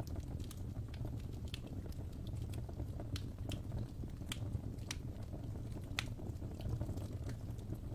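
Wood fire crackling in a fireplace: a steady low rumble of burning with scattered sharp pops and snaps, a few of them louder near the middle.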